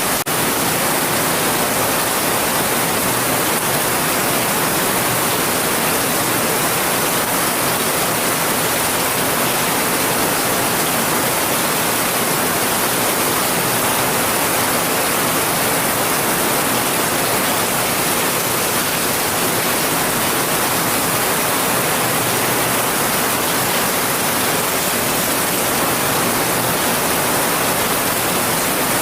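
Heavy rain falling as a steady, even hiss with no separate drops or thunder standing out.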